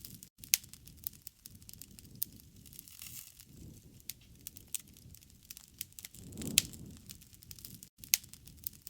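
Wood fire crackling, with frequent sharp pops and snaps over a low rumble of burning that swells about six and a half seconds in, where the loudest pop comes.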